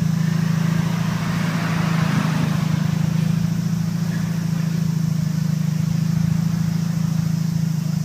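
MINI R50's four-cylinder engine idling steadily through a straight-pipe exhaust with the muffler removed, giving a constant low drone.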